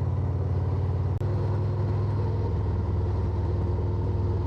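Harley-Davidson Road Glide's V-twin engine running steadily while riding, with the note shifting about a second in.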